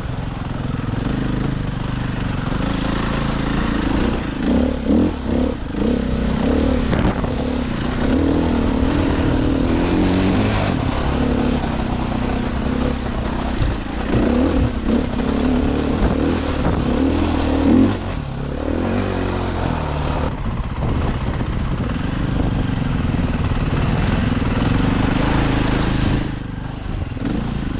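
Dirt bike engine running under riding load, its pitch rising and falling with the throttle, easing off near the end.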